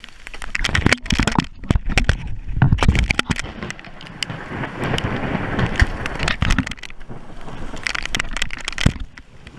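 Thunderstorm: heavy rain pelting an aluminium fishing boat, with many irregular sharp cracks and a low rumble.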